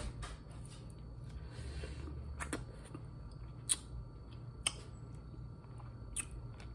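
Someone biting and chewing boiled corn on the cob: quiet mouth sounds with a handful of sharp wet clicks and smacks.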